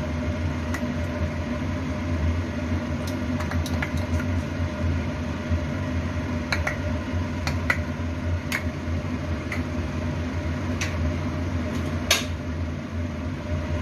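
Steady low mechanical hum of a kitchen appliance, with scattered light clicks and taps of a spoon on a cooking pot as ghee is spooned over the biryani rice, and one louder clack near the end.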